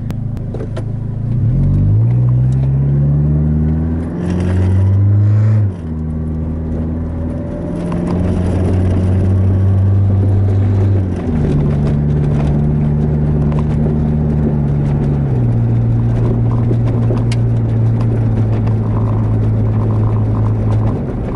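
Car running from inside the cabin while driving over speed bumps and potholes. The engine rises in pitch twice as it pulls away, then holds a steady hum, with occasional knocks from the suspension over the bumps. The knocking is the sign of a completely worn-out part at the sway bar.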